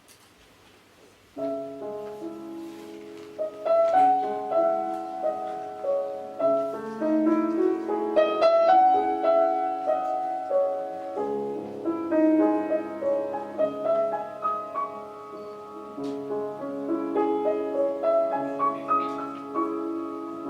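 Instrumental piano introduction to a chanson, melody over sustained chords, starting about a second and a half in after a brief near-silence.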